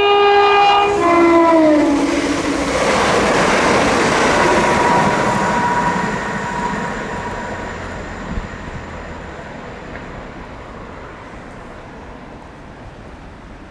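Chiltern Railways diesel multiple unit sounding its two-tone horn, a higher note then a lower, slightly falling one, as it approaches. It then passes at speed, and the rush of its wheels on the rails fades away over the following seconds.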